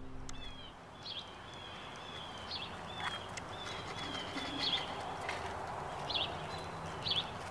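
Small birds chirping in short, high calls every second or so, with thin whistled notes between them, over a steady background of outdoor noise.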